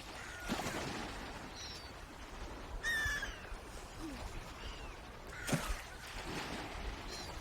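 Swans calling: several short calls, the loudest about three seconds in, over a faint steady outdoor background, with a brief sharp sound about five and a half seconds in.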